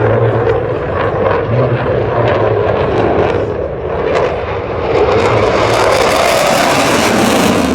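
Military fast jet flying a display, its engine noise loud and steady, turning harsher and more hissing from about five seconds in.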